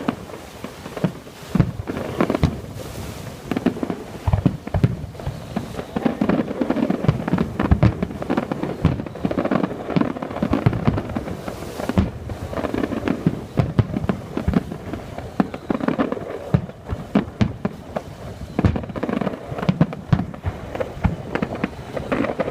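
Aerial fireworks display: a dense, continuous barrage of sharp bangs and crackles over deep booms, with no let-up.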